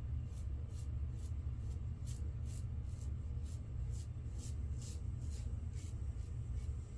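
Razor scraping lathered stubble in short strokes about twice a second, shaving against the grain, over a steady low hum.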